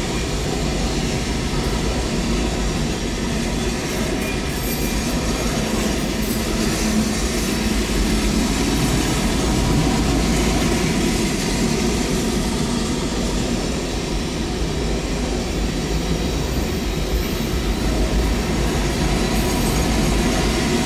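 Freight train of autorack cars rolling slowly past: a steady rumble of steel wheels on the rails.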